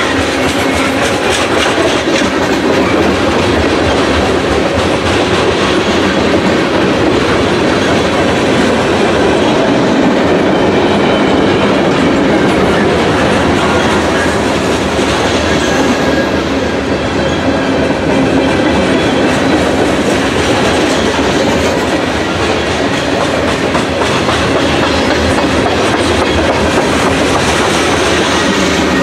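Train rolling past at trackside, steel wheels clicking over rail joints with a steady loud rumble.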